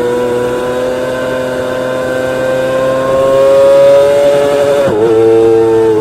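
Kawasaki Ninja ZX-25R's 250 cc inline-four engine running at very high revs with a high, steady pitch that creeps slowly upward. About five seconds in the pitch dips sharply for a moment, then holds a little lower.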